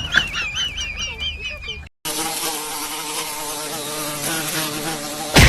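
A high, quickly wavering call repeats for about two seconds. After a brief cut, a steady buzz with a fixed pitch runs for about three seconds and stops abruptly near the end.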